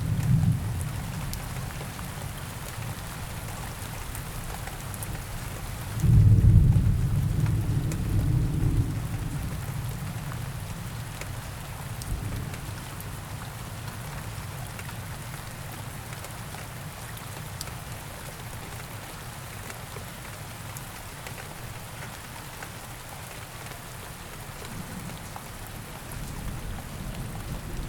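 Steady rain falling, with low rolls of thunder: a loud rumble starts about six seconds in and dies away over about three seconds, and fainter rumbles come later.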